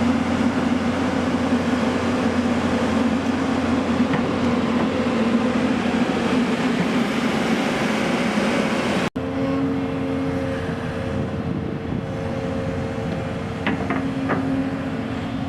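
Heavy diesel vehicle engine running steadily, cut off for a split second about two-thirds of the way through, then running on slightly quieter.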